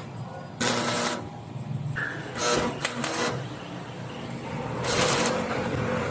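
Electric arc welding crackling and sputtering in irregular bursts of a second or less, with a steadier crackle between them.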